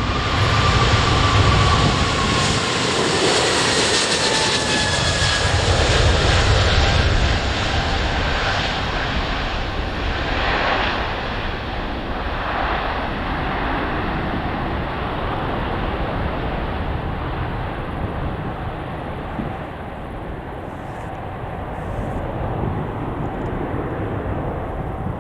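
Boeing 777-200ER's twin jet engines at takeoff power, a loud roar with a slowly falling whine in the first few seconds. The roar then fades and dulls as the aircraft climbs away, the high end dropping off over the second half.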